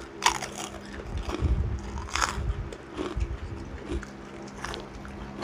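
Close-up eating sounds: chewing, with a few sharp crunches, the clearest just after the start and a little after two seconds in.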